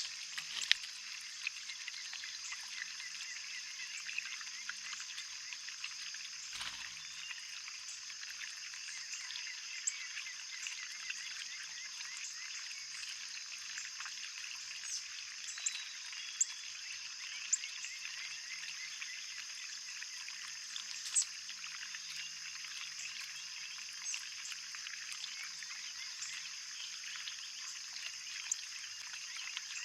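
Backyard ambience: a dense, steady high-pitched chorus of calling animals, with scattered short chirps and clicks over it.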